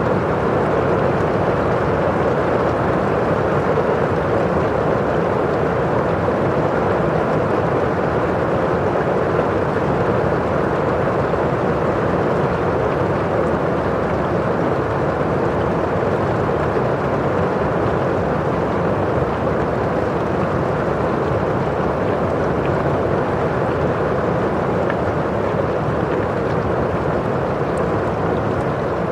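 Rain falling steadily on a windowpane, with the rush of rain outside: an even, unbroken, somewhat muffled sound.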